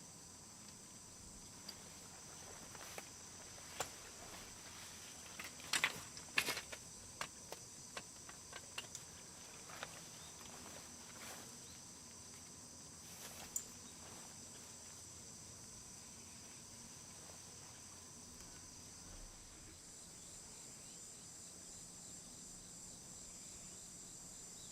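Insects, likely crickets, trilling steadily in a high-pitched chorus, with scattered faint clicks and knocks, the loudest a few around six seconds in.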